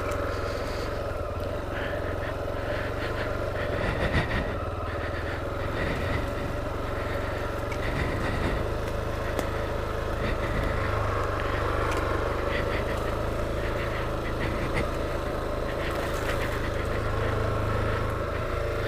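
Honda XR250L's single-cylinder four-stroke engine running steadily at low revs, with a few scattered clicks and knocks over it.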